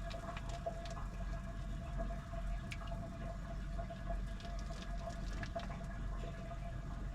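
Washing machine running mid-wash: water sloshing and dripping inside the drum over a steady low hum and a steady thin whine, with scattered small splashes and clicks.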